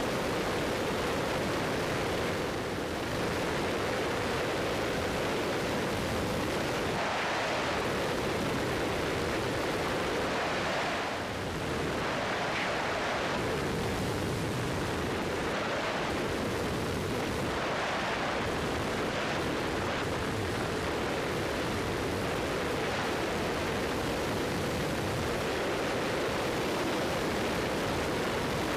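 Steady drone of a Cessna 172's engine, propeller and airflow heard inside the cabin, with brief slight dips about three and eleven seconds in.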